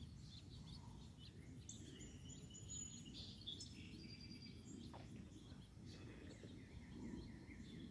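Faint songbirds chirping, with scattered short high calls and a longer high call about two to three and a half seconds in, over a steady low background rumble.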